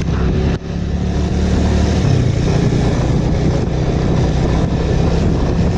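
Bajaj Avenger cruiser motorcycle's single-cylinder engine running steadily while riding, over road and wind noise. The sound dips sharply for a moment about half a second in.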